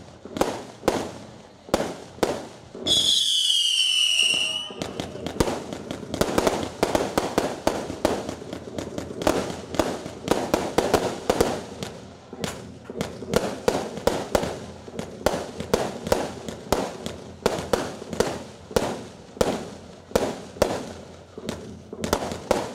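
Aerial fireworks going off in a rapid run of sharp bangs and crackling bursts, several a second. About three seconds in, a high shrill whistle glides slightly down in pitch for nearly two seconds.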